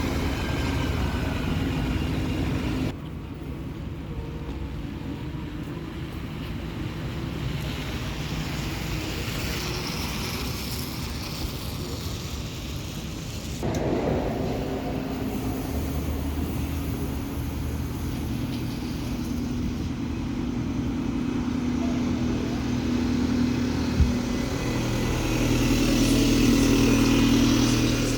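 Bus engines running, heard in several short cut-together clips. There is a single sharp knock about 24 seconds in, and an engine grows louder near the end.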